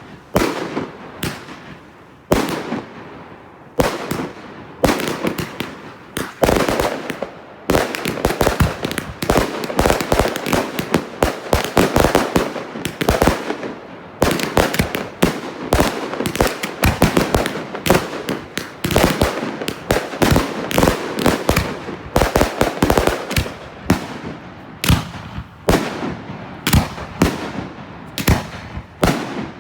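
Consumer firework cakes firing a rapid barrage of bangs. The shots are spaced out at first, come almost without a break from about six seconds in, and thin out again near the end.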